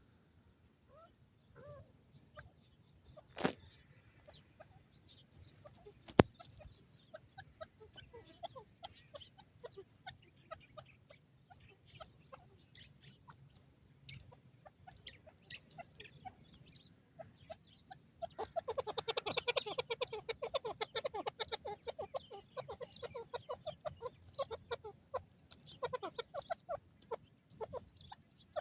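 Francolin calling in short clucking notes, breaking into a dense rapid run of calls about two-thirds of the way through. Two sharp knocks come early on, the second one loud.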